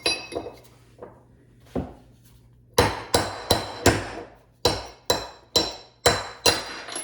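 Hammer blows on metal, driving a universal-joint bearing cap out of a double cardan driveshaft yoke: one knock, then about ten quick strikes, each with a short metallic ring, with a brief pause partway through.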